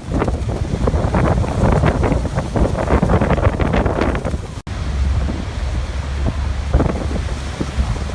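Waterfall rushing, with gusts of wind buffeting the microphone. The sound cuts out for an instant about four and a half seconds in.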